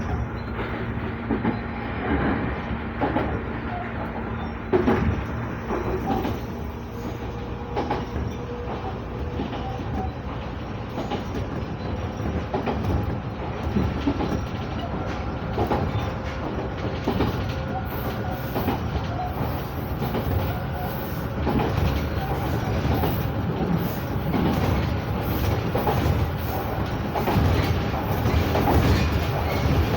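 Sangi Railway 5000 series electric train running between stations, heard from inside the car: a steady rumble of wheels on rail with repeated clacks over the rail joints, growing a little louder in the second half.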